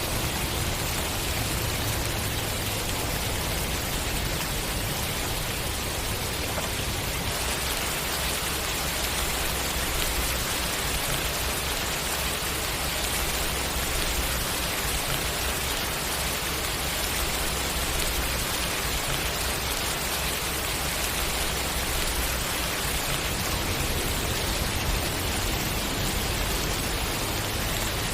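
Steady heavy rain falling on a surface, a dense even hiss of drops without pauses.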